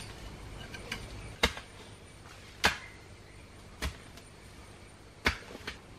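A series of sharp single knocks, about one every second and a bit, over a faint steady outdoor background.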